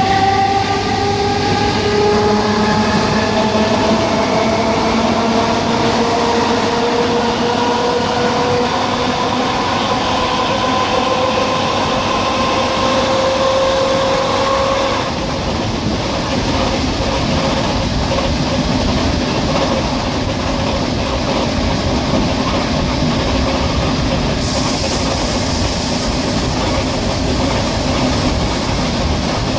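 ER9T electric train accelerating: a whine of several tones rising steadily in pitch for about fifteen seconds, then cutting off, leaving the steady rumble and clatter of the wheels on the rails as the train runs on.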